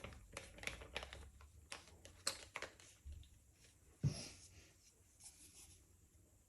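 Small irregular clicks and taps from handling a plastic squeeze bottle of pouring paint while squeezing it out onto a canvas, with one soft thump about four seconds in.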